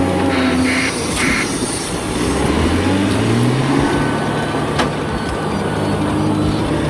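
Heavy truck engine running under load, its pitch rising a few seconds in.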